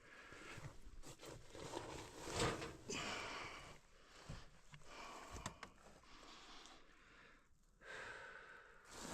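A person breathing hard with sighs and snorts while moving through a cramped space, with scattered scuffs and a few sharp knocks.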